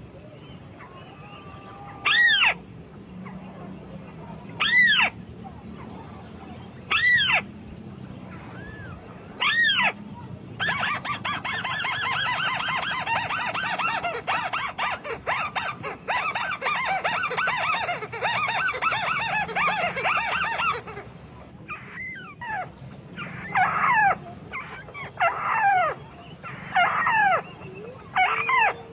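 White-browed crake calls: single arched notes about every two and a half seconds, then, about ten seconds in, a long fast chattering run lasting about ten seconds, followed by a string of falling notes.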